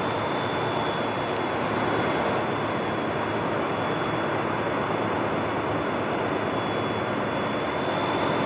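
Siemens Charger diesel locomotive idling at a standstill: a steady engine and cooling-fan drone with a thin constant whine above it.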